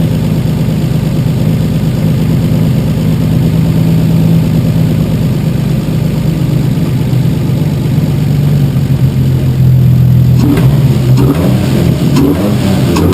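Freshly rebuilt Toyota 1JZ-GTE turbocharged straight-six, fitted with aftermarket cams and a big turbo, idling steadily. From about ten seconds in it is blipped, the revs rising and falling several times in quick succession.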